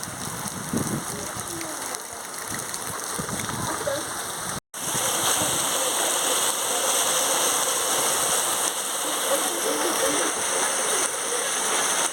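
Steady rain falling with an even hiss. About four and a half seconds in it cuts out for an instant, then comes back a little louder.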